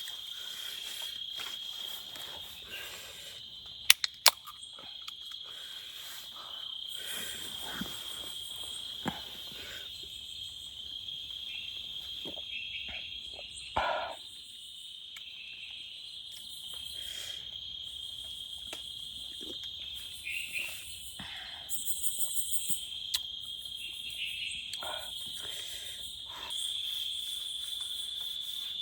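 Insects chirring in one steady, high-pitched drone, with scattered rustles and knocks of handling around camp. Two sharp clicks come about four seconds in.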